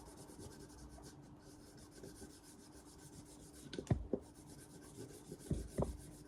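Faint rubbing of a steel axe blade being worked by hand on an abrasive, with a few light knocks about four seconds in and again near the end.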